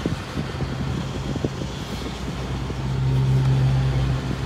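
Low engine hum with road traffic noise, heard from inside a car. The hum grows louder about three seconds in, then eases off.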